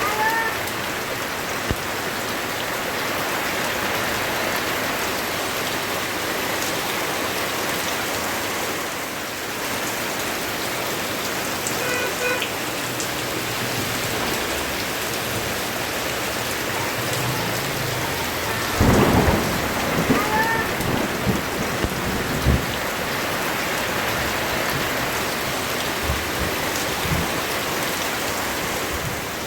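Steady rain pouring down throughout, with a sharp thunderclap about two-thirds of the way through that rolls on as rumbling for a few seconds.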